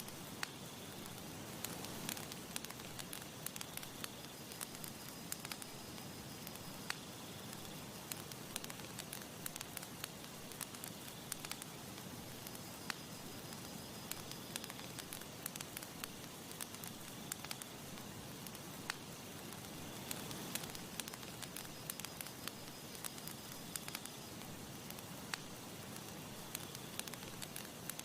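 Campfire crackling, with many sharp irregular snaps and pops over a steady soft hiss.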